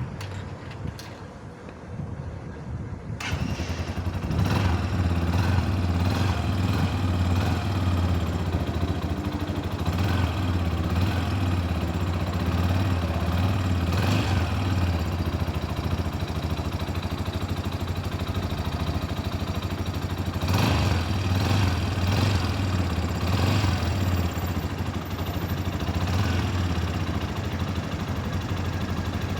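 Tekken 250cc motorcycle engine starting about three seconds in, then running steadily at idle.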